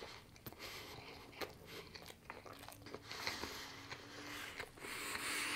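Close-miked mouth chewing a bite of grilled chicken burger with bacon and lettuce, with irregular small crunches and clicks.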